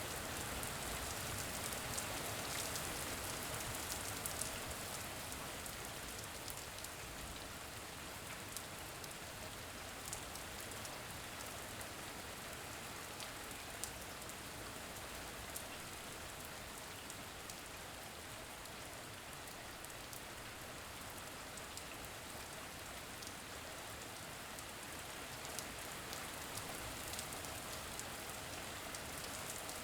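Steady rain falling on a surface: an even hiss with scattered sharp drops.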